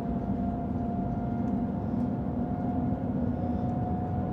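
Cabin noise of the Shanghai Transrapid maglev train accelerating past 200 km/h: a steady low rumble with a faint, steady high whine over it.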